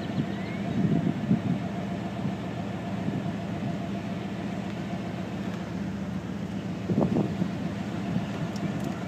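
A vehicle engine idling steadily, with a few faint knocks.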